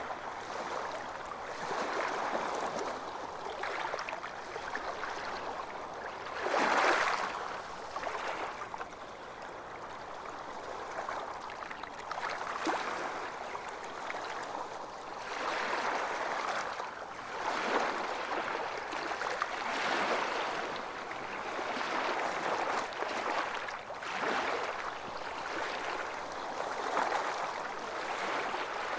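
Small surf waves washing and breaking on a beach in an unbroken hiss of water that swells and eases every couple of seconds, with one louder wave about seven seconds in.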